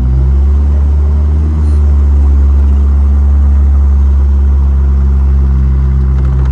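Engine of a Classic Motor Carriages Gazelle, a replica Mercedes roadster, running under way at a steady cruise: a loud, low drone holding one pitch.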